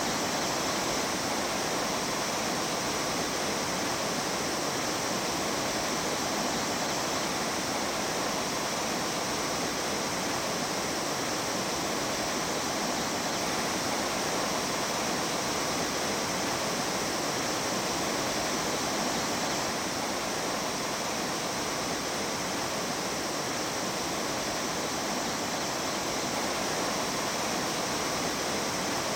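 Rushing water of a mountain stream, a steady, unbroken rush that holds even throughout.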